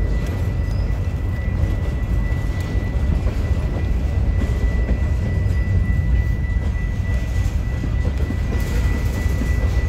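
Union Pacific freight train's covered hopper cars rolling past: a steady low rumble of steel wheels on the rails, with a thin steady high tone over it.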